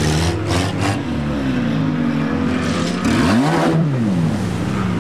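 Off-road racing vehicle's engine running, its pitch rising and then falling once about three and a half seconds in as it revs up and eases off. Short rattling noises come near the start.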